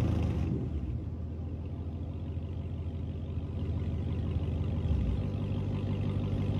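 Car engine idling through its exhaust just after a rev, the note settling to a steady low idle right at the start; the idle shifts slightly about five seconds in.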